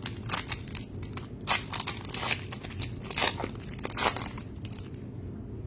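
Crinkling and tearing of a plastic trading-card pack wrapper being handled and ripped open, in a string of irregular rustles with a few louder rips over the first four seconds.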